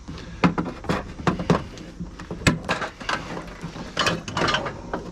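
Hand wire snips clicking and snapping as they cut scrap electrical wire, a string of irregular sharp clicks with a few short rasps.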